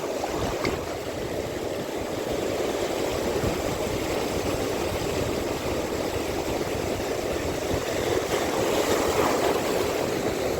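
Steady rushing noise of wind and water on a small boat at sea, with no distinct events.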